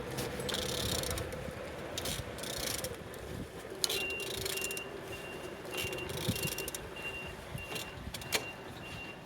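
A vehicle reversing alarm starts about four seconds in, beeping steadily on one high tone about twice a second over a background of short bursts of rustling hiss. A single sharp click comes near the end.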